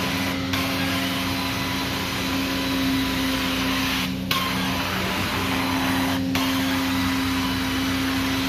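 Carpet-cleaning extraction machine running on high speed, its wand sucking steadily across the carpet with a continuous hiss over a steady hum. The hiss drops out briefly three times.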